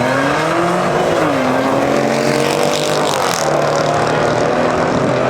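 Performance car engine revving hard on a drag and drift strip. Its pitch swings up and down in the first second or so, then holds at steady high revs, with a burst of hiss about three seconds in.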